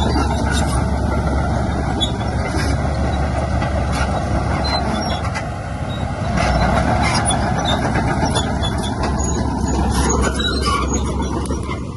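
Heavy diesel earthmoving machinery running steadily, its engine swelling a little louder about six seconds in and again near ten seconds, with scattered light clanks.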